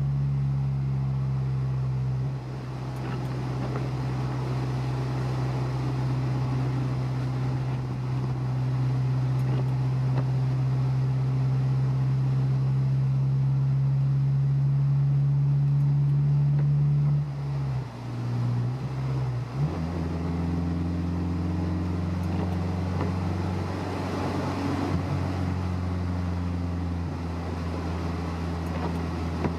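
Honda S2000's engine running steadily with tyre and road noise, heard from inside the car. About two-thirds of the way through, the note breaks with a short dip in level, then carries on at a lower pitch.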